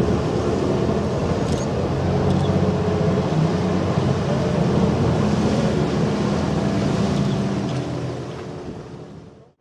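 A ship's engine running with a steady low hum, and wind noise on the microphone; it fades out near the end.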